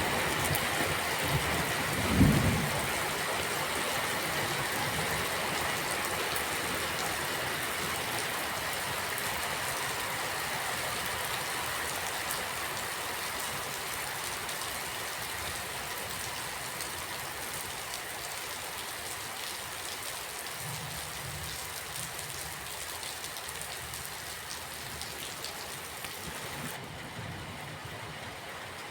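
Steady rain falling, an even hiss of drops that eases slightly in loudness. A sharp low thump about two seconds in, with soft low rumbles later on.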